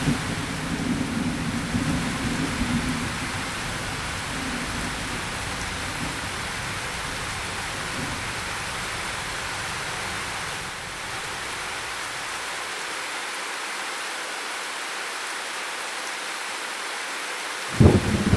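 Steady rain hissing down in a thunderstorm. A low thunder rumble dies away over the first few seconds, and a loud new thunderclap breaks in suddenly near the end.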